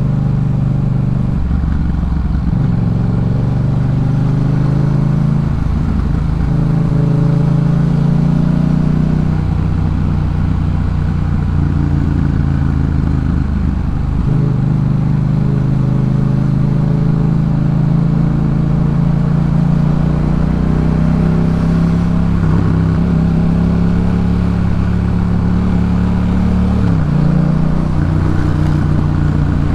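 Yamaha MT-07's 689 cc parallel-twin engine running through a Jeskap K4 full aftermarket exhaust while riding. The engine note rises and drops several times as the throttle and revs change.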